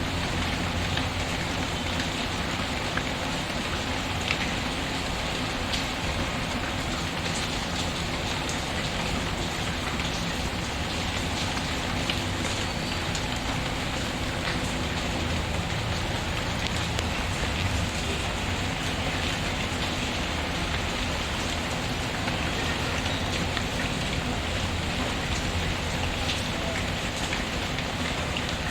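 Steady, even rain patter mixed with the crackling of a wood fire in a fireplace, its crackles heard as scattered faint clicks over the rain.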